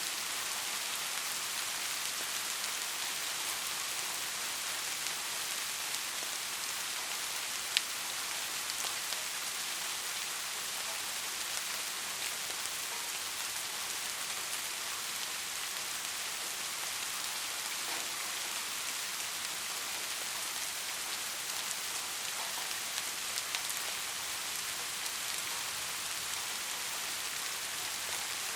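Steady rainfall, an even hiss of drops on a surface, with occasional louder single drops striking close by, the sharpest about eight seconds in.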